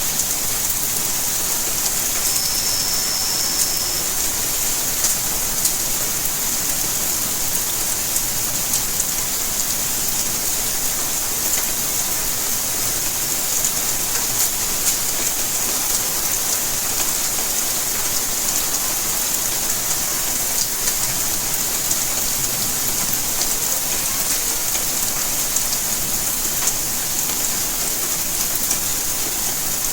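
Steady rainfall: an even hiss of rain falling on surfaces, with scattered drop ticks. A brief thin high tone sounds about two and a half seconds in.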